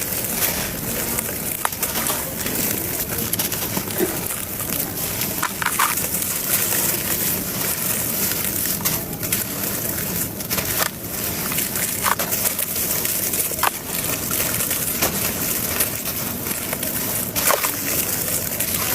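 Gritty brown dried cement crumbling and crunching into a wet paste: a steady gritty crackle with occasional short sharp cracks.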